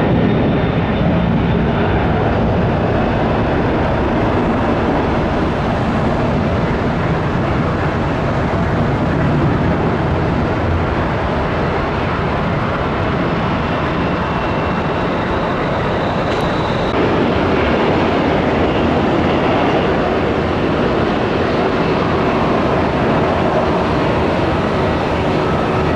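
Jet airliner engines running steadily at take-off: first a Boeing 767-200 freighter, then, after a change about 17 seconds in, a Boeing 737-8 MAX starting its take-off.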